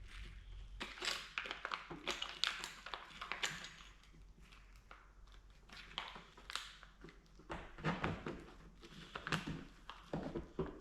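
Irregular taps, clicks and light scraping of hand work with tools and materials, over a faint low hum.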